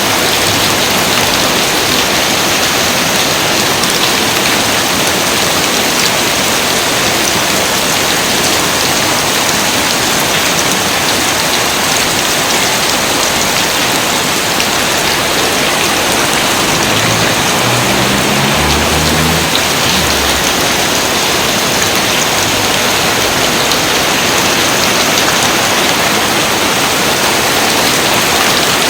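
Steady, dense rain falling without let-up.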